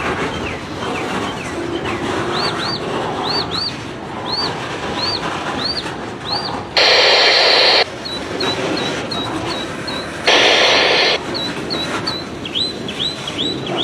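Freight train rolling past, with a string of short high squealing chirps repeating through the pass. Two loud bursts of hiss, each about a second long, start and stop abruptly a little past the middle.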